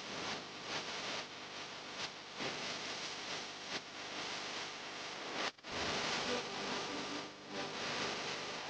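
Steady hissing background din with a faint hum, briefly dropping out a little past halfway.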